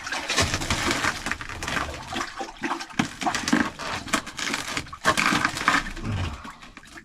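Water splashing and sloshing in an ice-fishing hole in irregular bursts, as a hooked fish is fought at the hole.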